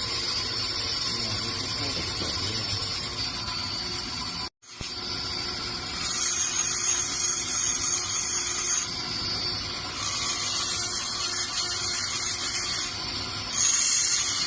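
Power tool grinding natural stone, a steady whining machine noise. It cuts out for an instant about four and a half seconds in, and a higher-pitched whine comes in from about six to nine seconds in and again near the end.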